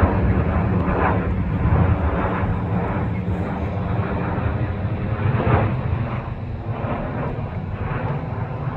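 Steady drone of an airliner's engines, low and continuous with a rushing noise over it.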